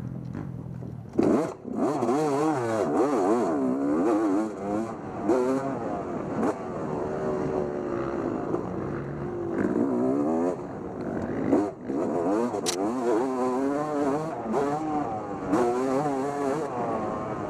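Off-road motorcycle engine ridden hard, its revs rising and falling quickly and constantly as the throttle is worked, with a few sharp knocks and clatters along the way.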